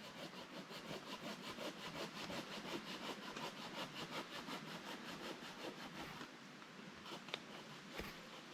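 A hand saw cutting firewood in fast, even strokes, about six a second. The sawing stops about six seconds in, followed by a few sharp knocks of wood.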